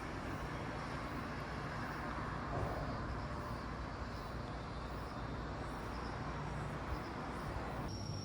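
Steady vehicle and traffic noise, a low rumble with road hiss. Near the end the sound changes abruptly to a high, steady insect trill.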